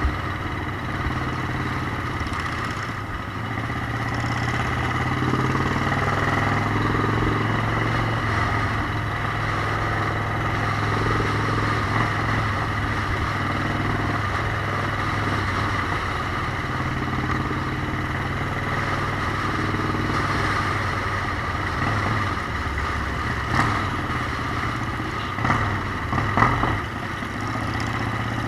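Motorcycle engine running steadily on the move, the pitch rising and falling a little. A few short sharp clicks or knocks come near the end.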